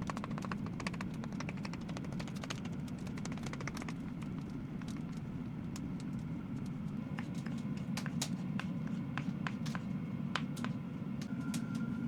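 Quick small clicks and taps of food being mashed by hand, thick for the first couple of seconds and then scattered, over a steady low hum.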